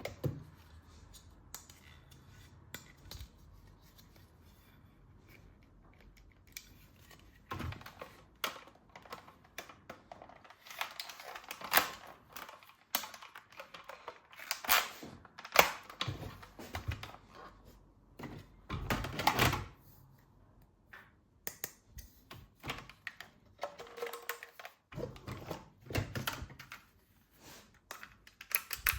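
Hard plastic toy parts being handled: scattered clicks, knocks and rattles, sparse for the first several seconds and then busy.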